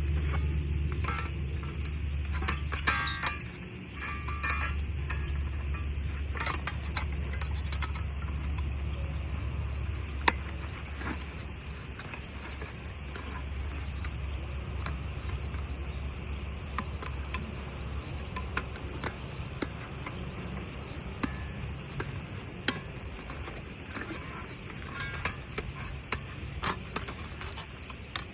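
Crickets chirping in a steady, continuous high trill. Scattered sharp clicks and knocks sound over it, a small cluster of them about three seconds in, and a low rumble underneath eases off partway through.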